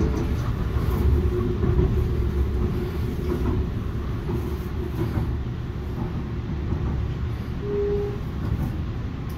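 Canada Line SkyTrain car running, heard from inside the car: a steady low rumble, with a brief faint whine about eight seconds in.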